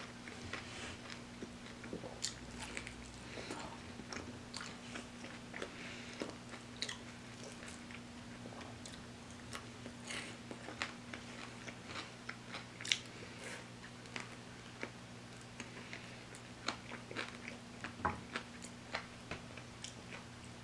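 Close-up eating sounds of fried chicken: crunchy bites into the crispy breading and chewing, with many small crackles and mouth clicks. A low steady hum runs underneath.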